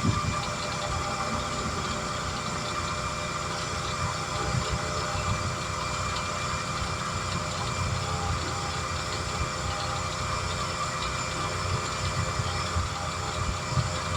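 A motor running steadily: a low rumble with a constant hum, like an engine at idle.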